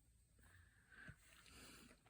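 Near silence: faint rustling of craft materials being handled, with one soft tap about a second in.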